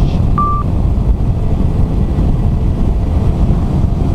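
Steady rush of wind and road noise while riding a motorcycle, with one short single-pitched beep about half a second in.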